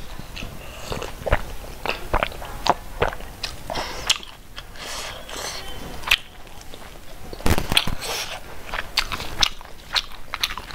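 Close-miked mukbang eating sounds: a mouthful of rice and pork being chewed, wet and with many sharp mouth clicks.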